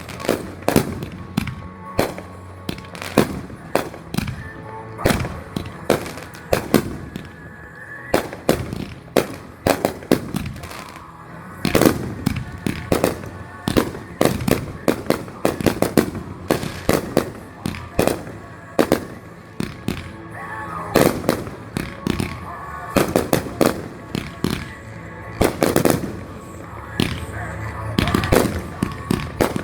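Backyard consumer fireworks going off in a rapid, continuous string of sharp reports and bursts, several each second.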